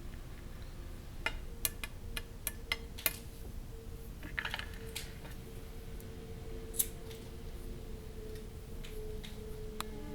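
A series of sharp, irregular clicks and taps, most of them in the first three seconds and a few later, over a steady low hum.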